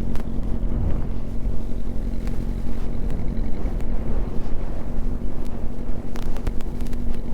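Yamaha R6 inline-four engine running steadily at low revs as the bike is ridden slowly and brought to a stop, with wind rumbling on the microphone.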